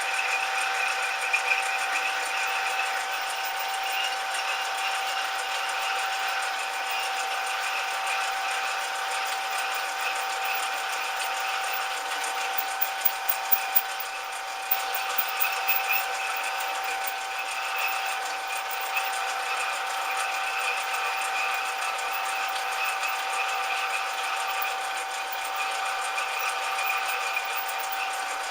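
Small metal lathe running steadily with an even motor and gear whine, with a short run of sharp ticks about halfway through.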